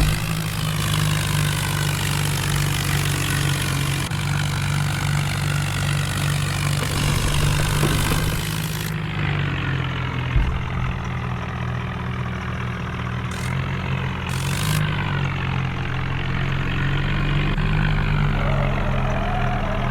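Diesel tractor engine running steadily with a low, even drone. A high hiss over it cuts off about halfway through, and there is a single short thump shortly after.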